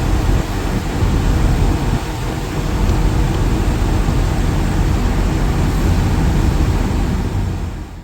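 Steady low rumble of a moving passenger train heard from on board, falling off and cutting out suddenly at the very end.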